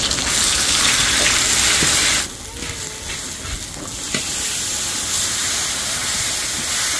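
Nam ngiao curry paste frying in oil in a pot, a loud sizzling hiss that drops suddenly about two seconds in and carries on softer. A few light knocks come through the sizzle.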